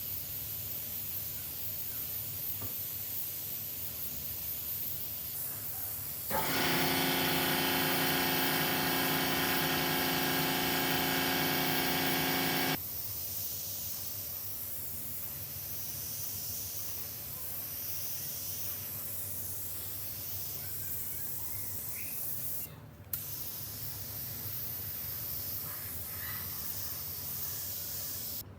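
A steady hiss, like a spray gun or air line, runs throughout. For about six seconds in the middle a louder machine hum with a fixed pitch starts and then cuts off suddenly.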